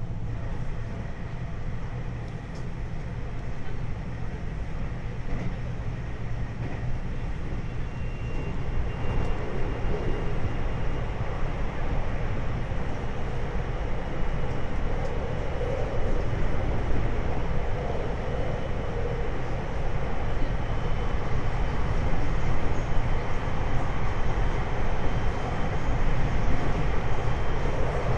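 Running noise of a 521 series electric multiple unit heard from inside the car: a continuous rumble that grows gradually louder, with a faint high whine joining it about a third of the way in.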